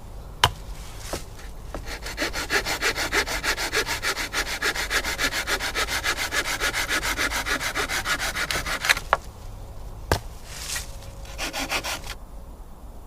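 Hand saw cutting through dead wood in a long run of rapid, even strokes, stopping about nine seconds in, with a short second run of strokes near the end and a couple of sharp knocks of wood.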